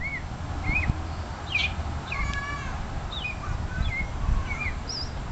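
Robin-like calls: a string of short, high chirps that slide up and down in pitch, with one longer, fuller call about two seconds in, made to call a baby robin.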